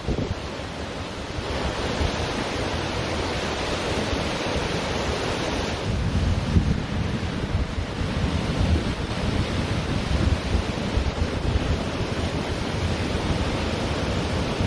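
Ocean surf washing onto a beach in a steady hiss, with gusts of wind rumbling on the microphone that grow stronger in the second half.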